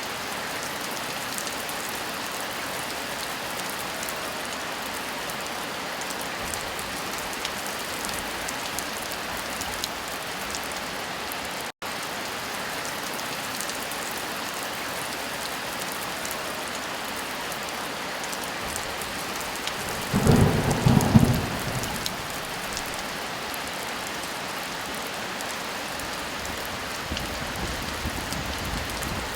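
Steady heavy rain falling, with a loud crack of thunder about twenty seconds in that rumbles on for a couple of seconds. The rain cuts out for an instant just before the twelve-second mark.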